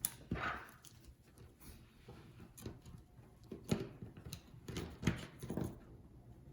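Scattered light clicks and taps from small repair tools and phone parts being handled: a sharp click at the start, a short cluster just after, and a few more taps later on.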